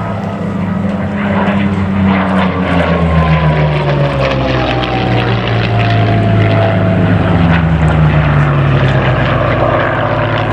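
Merlin V-12 piston-engined fighters, a Hispano Buchon and a Curtiss P-40F, flying past; the engine note drops in pitch as they go by, and drops again a few seconds later.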